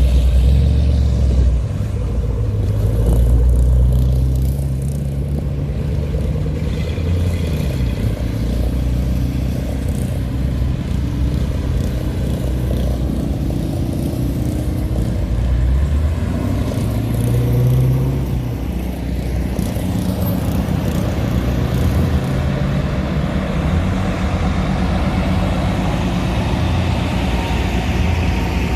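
Hot rods and other cars driving past one after another, engines running low-pitched. The loudest passes come right at the start, about three seconds in and about seventeen seconds in.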